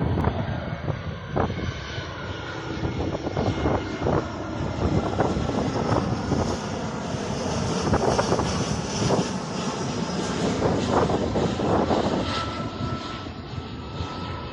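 An airliner on final approach passing close by, its engine noise building to a peak about two-thirds of the way in, then fading as it moves off toward the runway.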